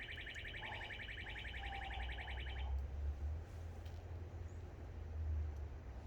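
A fast, high whistled trill of rapid repeated notes that stops about two and a half seconds in, over a steady low rumble.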